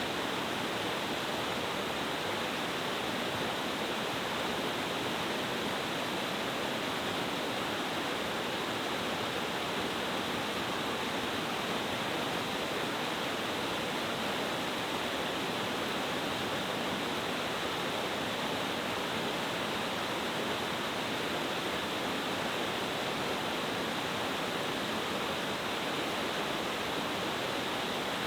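Oshidori-kakushi Falls, a mountain stream cascade dropping over several tiers, rushing steadily. The sound is an even, unbroken wash of falling water.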